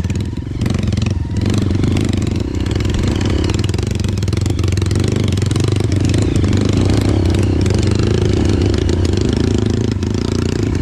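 Dirt bike engine running steadily as the motorcycle is ridden off-road, with a brief dip in engine level just after the start.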